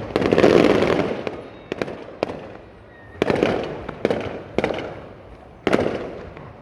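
Aerial fireworks shells bursting: a string of sharp bangs, about seven in all, the loudest right at the start. Each bang is followed by a rolling rumble that fades.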